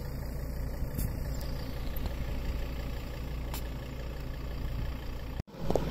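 Ford Endeavour SUV's engine idling steadily, with a couple of faint clicks over it.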